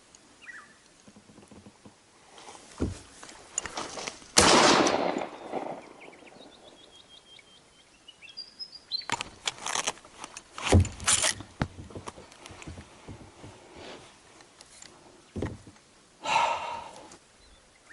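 A single gunshot about four seconds in, sudden and loud with a trailing echo, followed later by scattered sharp knocks and crashing in brush. Birds chirp in between, one giving a quick descending run of notes.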